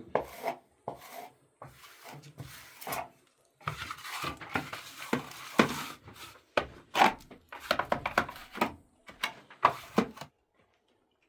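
A rapid series of knocks, clatters and scraping, as of hard objects and tools being handled and set down, with a longer rasping stretch in the middle; it stops abruptly about ten seconds in.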